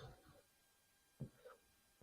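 Near silence, with one faint knock about a second in and a softer tap shortly after.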